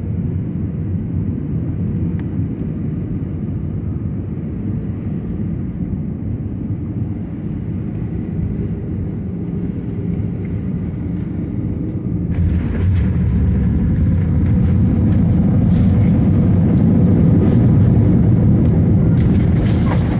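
Airbus A320 cabin noise: a steady low rumble of engines and airflow on final approach. About twelve seconds in, a sudden louder roar with hiss cuts in and builds for several seconds, the sound of touchdown and the braking roll on the runway.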